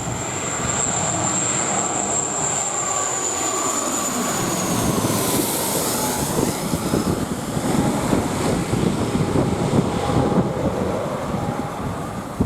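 De Havilland Canada Dash 8 Q400 turboprop passing low overhead on approach to land, its high engine whine dropping in pitch about five seconds in as it goes by, with strong gusty wind buffeting the microphone.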